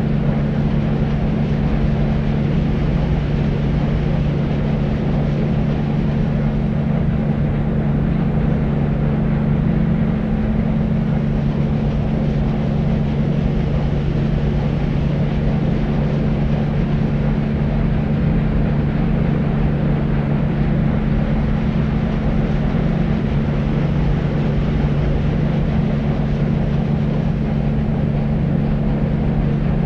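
Deep white noise for babies: a steady, even rush weighted toward the low end, with a strong low hum-like band and little treble. It does not change at all.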